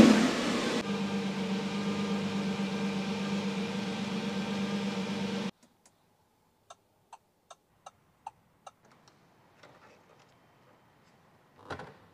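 Lamborghini Revuelto's naturally aspirated V12 settling to a steady idle after a rev, then cutting off suddenly. A run of about seven light ticks follows, roughly three a second, and there is a short knock near the end.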